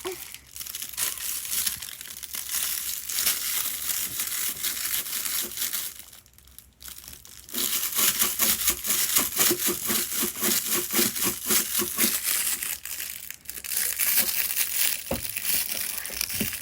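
Close, dense crinkling and crunching crackles, with a short lull about six seconds in.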